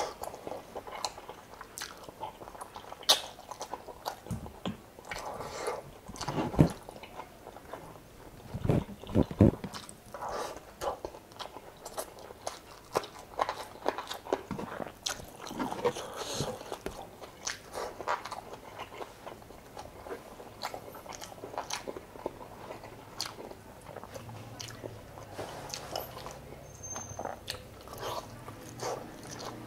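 Mouth noises of a person eating chicken adobo in coconut milk with rice: irregular wet chewing and biting, full of small sharp clicks. A few louder knocks come between about three and ten seconds in.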